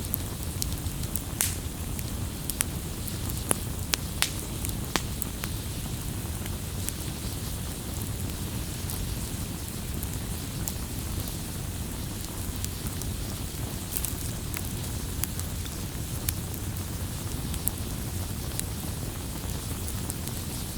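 Wood fire burning, a steady low rush of flames with scattered sharp crackles and pops, more frequent in the first few seconds.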